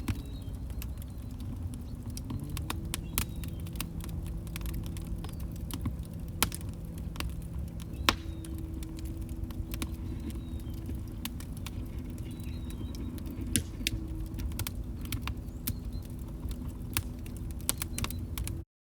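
Log fire crackling: a steady low rumble of burning with frequent sharp pops and snaps, a couple of louder pops about six and eight seconds in. The sound drops out to silence for about a second near the end.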